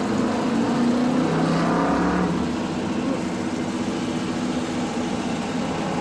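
Car engine running at idle, its note rising slightly for about a second roughly one to two seconds in, then settling back.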